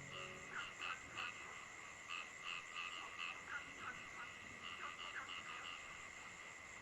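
A chorus of frogs calling: short repeated croaks, two or three a second, over a steady high trill, with a few lower calls between them.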